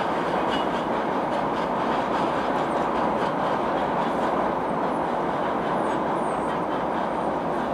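Freight train of tank cars rolling along the track, a steady rumble of wheels on rails with faint regular clicking over the rail joints, plainer in the first few seconds.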